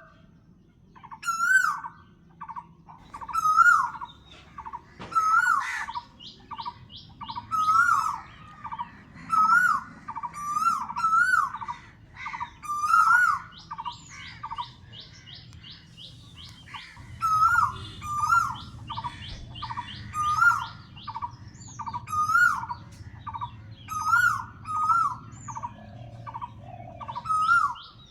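Birdsong: one bird repeats a short rising-and-falling call about every second or two. Other birds chirp and twitter at a higher pitch behind it.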